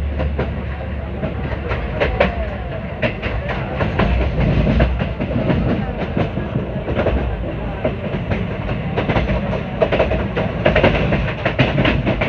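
ICF railway passenger coach running at speed on the track: a steady low rumble from the wheels on the rails, with many sharp clicks and rattles throughout.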